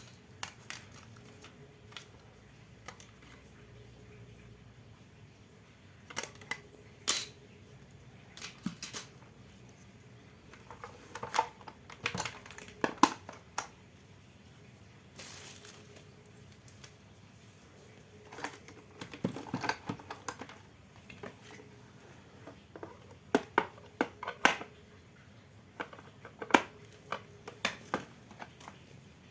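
Irregular clicks, taps and light knocks of small parts being handled and fitted, some single and some in quick clusters, while an electric-fan motor is being installed.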